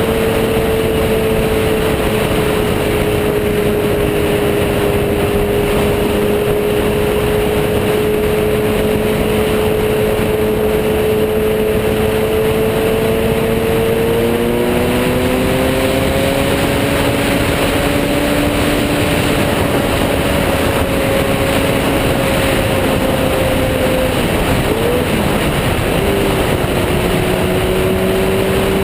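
Motorcycle riding at speed, a heavy rush of wind noise over a steady engine note. The engine note climbs a little about halfway through and dips twice near the end.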